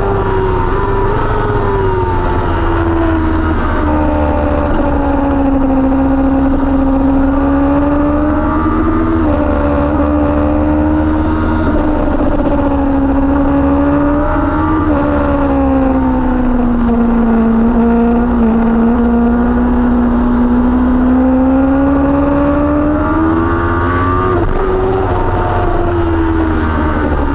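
Kawasaki ZX-10R superbike's inline-four engine heard on board at speed. Its pitch falls as the bike slows for a corner, with two short upward jumps along the way. It bottoms out about two-thirds of the way through, then climbs under acceleration before dropping again near the end.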